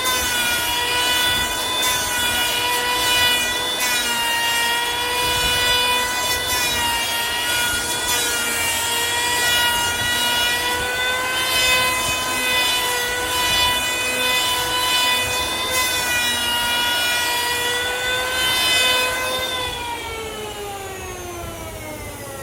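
Electric woodworking power tool running at high speed with a steady whine and brief cutting noises in wood. It is switched off near the end and winds down, its pitch falling.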